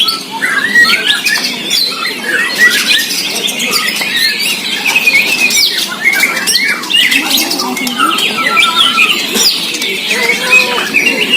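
Several white-rumped shamas (murai batu) singing at once in a songbird contest: a dense, unbroken tangle of overlapping quick whistles, trills and chattering notes.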